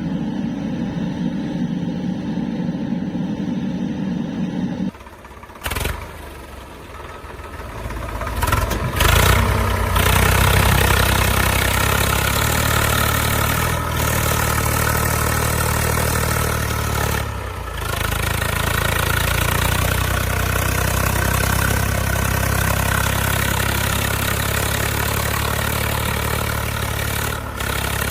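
Heavy diesel engine of a backhoe loader or tractor running steadily. The sound changes abruptly about five seconds in, then grows louder, and from about nine seconds the engine runs loud and steady.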